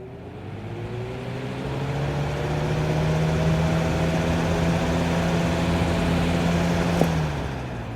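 Lasko box fan's capacitor motor spinning up after being switched on, its hum rising in pitch with a growing rush of air over the first three seconds, then running steady. About seven seconds in a switch clicks, the motor hum cuts out and the blades begin to coast down.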